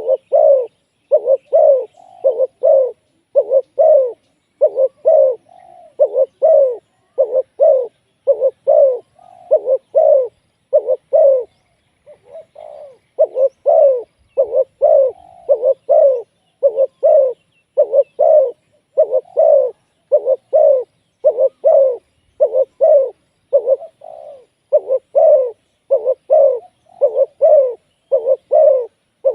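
Spotted dove cooing over and over in low, evenly spaced notes, about two a second, with a brief pause about twelve seconds in.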